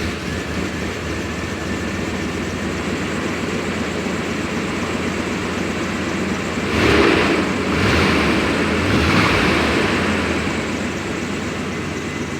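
Pickup truck engine running just after being started, with a steady rumble that swells louder a few times about seven to ten seconds in.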